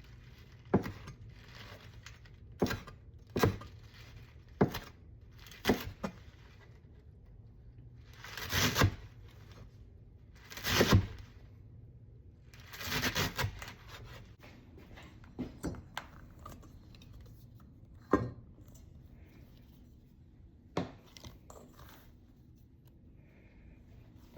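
Kitchen handling noise: a series of sharp knocks and clatters of utensils or dishes on a counter, with three longer scraping or rustling sounds of about a second each in the middle.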